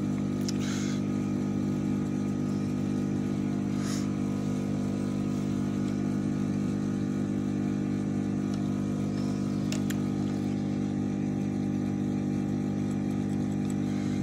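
A steady hum from a small motor or fan, even in pitch and level throughout. A few brief, light handling sounds come about half a second in, at about four seconds and near ten seconds.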